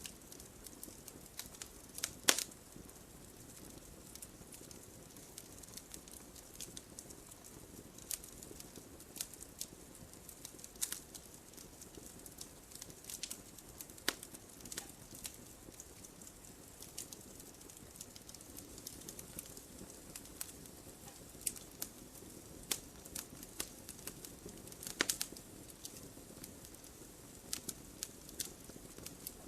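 Campfire wood burning with a soft low hiss and irregular crackling, scattered sharp pops, the loudest about two seconds in and near the end.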